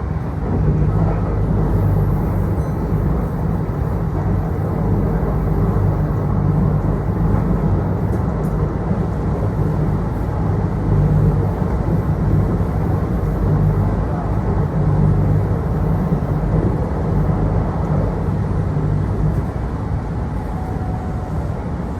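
Kintetsu electric local train running between stations, heard from inside the passenger car: a steady low rumble of wheels on rail and traction motors.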